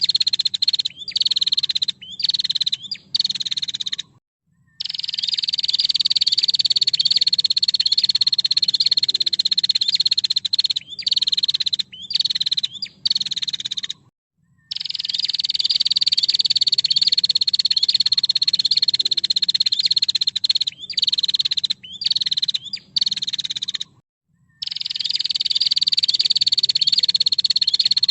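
Female prinia (prenjak) calling a long, fast, rattling trill held at one high pitch, in stretches of several seconds broken by short gaps. The same sequence repeats about every ten seconds, as a looped recording does.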